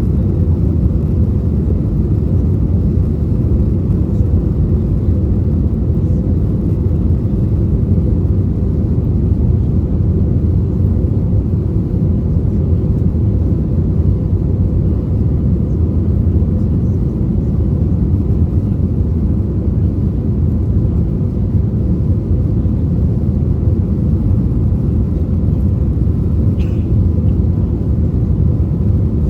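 Steady cabin rumble of an Airbus A320neo with CFM LEAP-1A26 engines, heard from a rear economy seat, with a faint steady hum over the deep roar.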